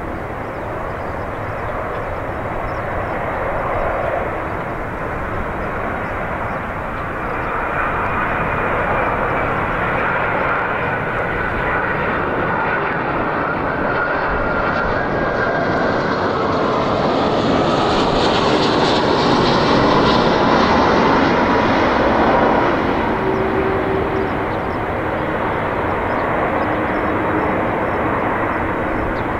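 Airbus A330-300 with Rolls-Royce Trent 700 turbofans passing by on landing approach: jet engine noise builds to its loudest about two-thirds of the way through. A whine slides down in pitch as the plane goes past, and the noise then eases off.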